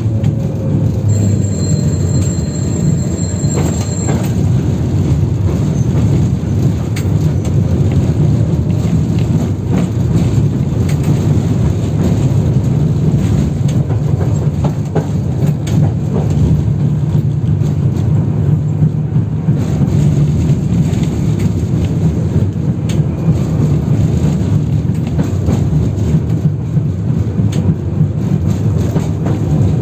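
Inside a 71-608KM tram car under way: the steady rumble of the running gear, with frequent clacks and knocks as the wheels run over worn track. A thin high whine sounds for a few seconds near the start.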